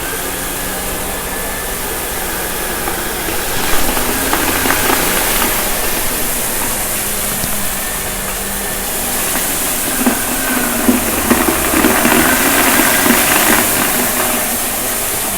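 Shark vacuum cleaner running steadily with a constant whooshing hum. Twice, about four seconds in and again for a few seconds past the middle, debris crackles and rattles as it is sucked up.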